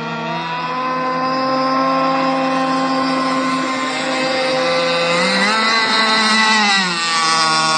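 RC model boat motors running steadily; about five seconds in one motor's pitch rises, holds, then drops back about two seconds later.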